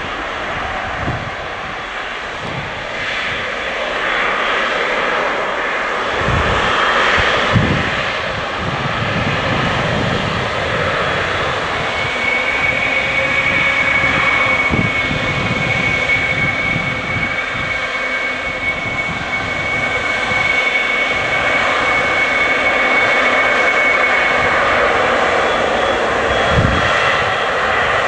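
Boeing 777 jet engines running: a continuous loud rush that swells slightly, with a high steady whine held for about twelve seconds in the middle and a few low thumps.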